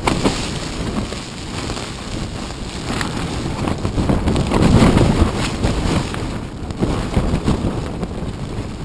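Strong mountain wind buffeting the microphone: a loud, gusty rumble with no steady pitch, swelling to its strongest about halfway through.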